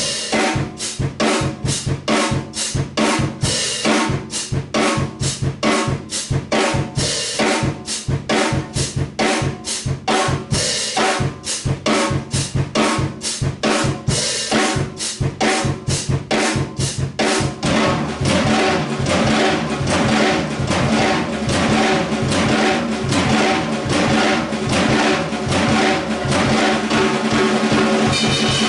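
Acoustic drum kit played live: a simple steady beat on hi-hat, snare and bass drum at about three strikes a second, growing denser and more continuous about two-thirds of the way through.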